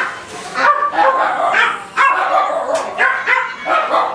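Capybara giving a rapid run of short, high-pitched yipping squeals, several calls a second.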